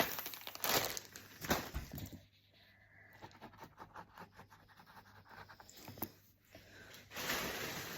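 Rustling and crinkling of plastic packaging and fabric being handled, then a quieter stretch of faint rapid ticks before the rustling picks up again near the end.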